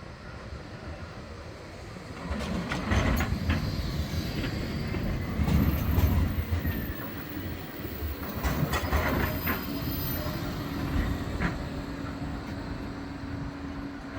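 Bombardier Flexity 2 tram running along the track. Its wheels rumble, with a series of sharp clicks over rail joints or points and some wheel squeal. It grows louder about two seconds in, and a steady motor hum comes in near the end.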